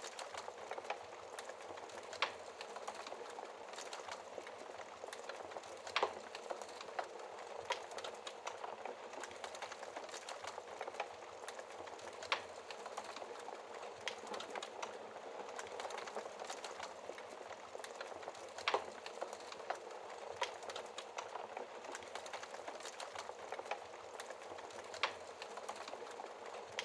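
Wood fire burning in a fireplace: a steady hiss of flames with constant small crackles and a sharper pop every few seconds.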